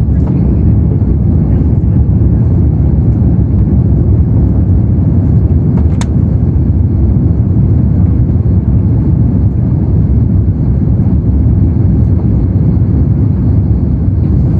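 Steady low rumble of airflow and the Pratt & Whitney PW4168A engines of an Airbus A330-300 on final approach, heard inside the cabin. A single brief click sounds about six seconds in.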